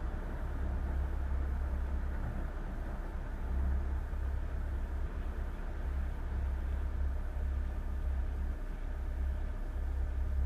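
Boat's engine running steadily under way, a low rumble that swells and fades.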